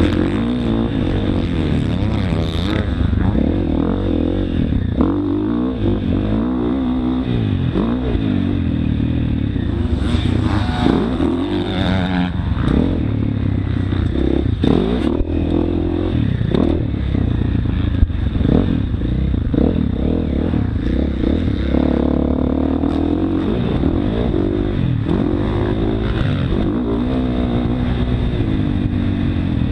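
Motocross dirt bike engine revving up and falling back again and again as the rider accelerates, shifts and rolls off, heard close up from an on-board action camera, with a steady rumble beneath.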